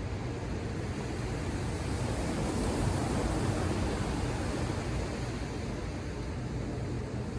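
Ocean surf: a wave breaks and washes in, swelling to a peak about three seconds in and easing off, over a steady low rumble.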